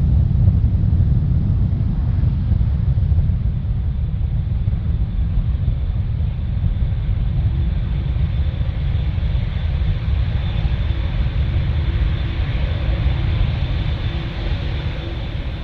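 Large jet airliner's engines on takeoff: a loud, deep rumble that slowly fades as it moves away, with a thin high whine coming through in the second half.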